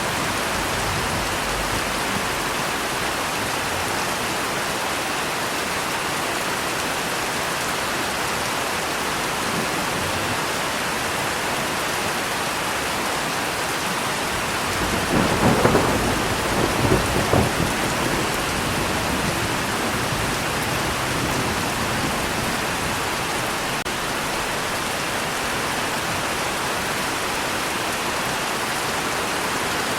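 Steady heavy rain falling, with a roll of thunder rumbling about halfway through, swelling twice over a few seconds before fading back under the rain.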